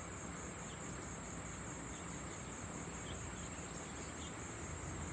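Crickets trilling: a steady, high, continuous chirring over a low, even background rumble.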